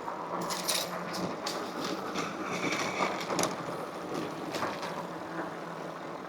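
Electric bike being ridden: steady tyre and road noise with a faint motor whine, and frequent short clicks and rattles from the bike.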